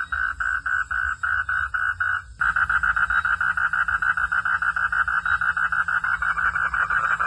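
Frog calling in a steady train of pulsed croaks, about five a second. A little over two seconds in, it switches suddenly to faster, denser pulsing of about eight a second.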